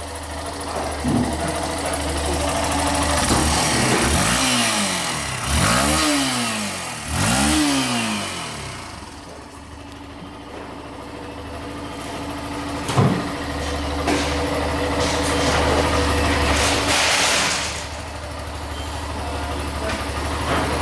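Yamaha YS125's single-cylinder four-stroke engine idling, with three throttle revs in quick succession, each rising and falling back, in the first half. Two shorter, sharper blips come about a second in and a little past halfway.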